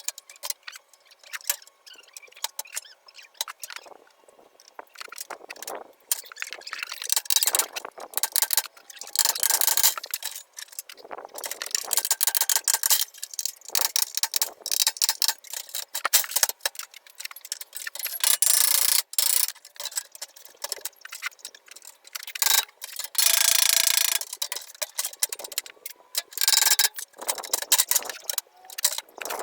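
Hand-tool work on a truck cab: irregular clicking and ticking, broken by several rasping, scraping bursts of a second or two each.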